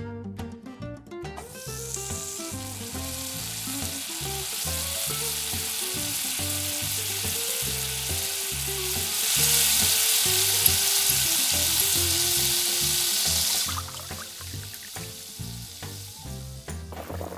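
Diced potato, bacon and celery sizzling as they fry in a miniature pot. The sizzle gets louder about nine seconds in and stops sharply about four seconds later. Background music plays underneath.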